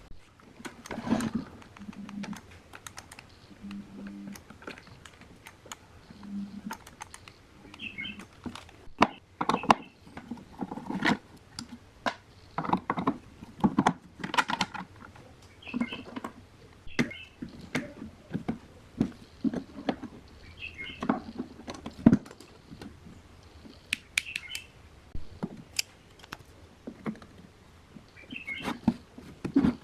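Irregular knocking and clicking of hard objects being handled, with a short high chirp or squeak every few seconds.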